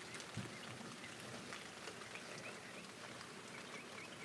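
Steady rain falling outdoors during a thunderstorm, heard as an even hiss. A soft thump comes about half a second in, and faint high chirps repeat through the rain.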